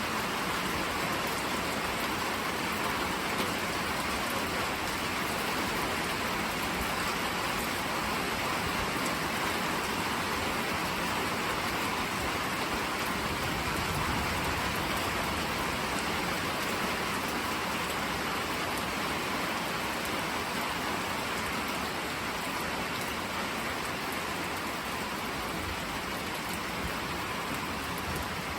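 Steady rain falling in a thunderstorm, an even hiss of drops on surfaces.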